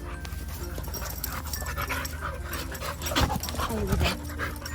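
Dogs playing rough together, panting with quick scuffling sounds, and two louder short vocal sounds about three and four seconds in.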